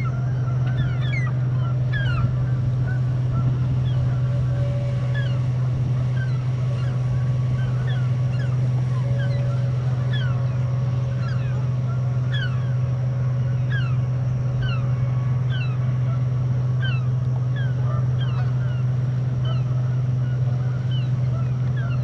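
A motor drones steadily at one low pitch. Over it come many short, falling bird calls, a second or so apart, from birds being chased off the water.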